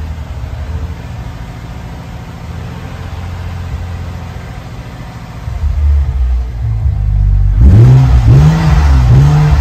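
BMW N55 turbocharged straight-six running at a raised idle just after being started on a newly fitted low-pressure fuel pump. It keeps running, a sign that fuel is reaching the engine. About two-thirds of the way in it gets louder, and its pitch rises and falls twice, like light revs.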